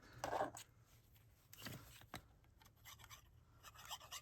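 Small die-cut cardstock pieces rubbing and rustling as they are handled and pressed into place, with a short scrape near the start, another about halfway through, and a few light taps.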